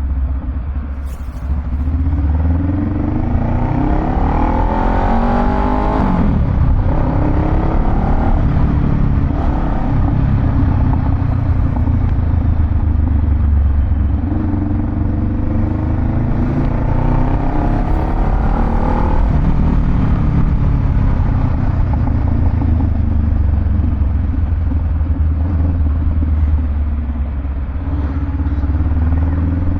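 Honda Rebel 500's parallel-twin engine through a Vance & Hines aftermarket exhaust, running with a deep low rumble. It revs up twice, about three seconds in and again near the middle, rising in pitch and then falling back.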